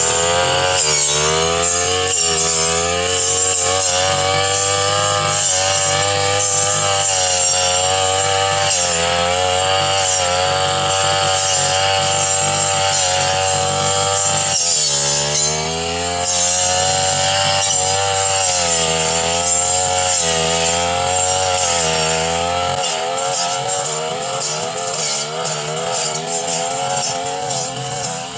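Brush cutter engine running at high revs while cutting through dense undergrowth. Its pitch repeatedly sags and recovers as the blade bites into the brush, with a deep dip about halfway through.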